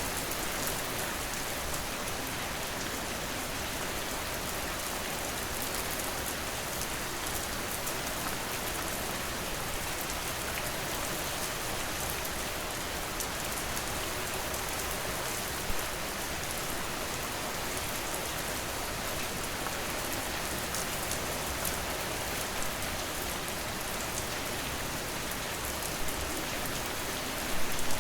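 Steady rain falling on a surface: an even hiss full of fine drop ticks. A few louder, sharper drop hits stand out, bunched near the end.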